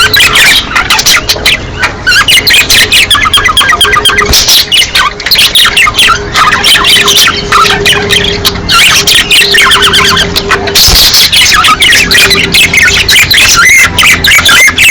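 A group of budgerigars chattering and warbling in a dense, unbroken run of quick chirps and squawks: breeding-season calling.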